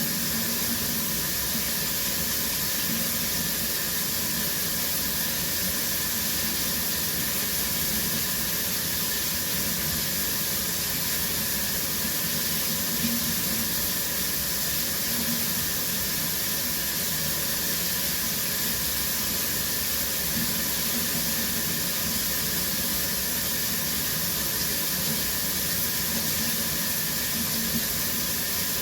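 Shower running steadily, its spray making an even hiss of falling water.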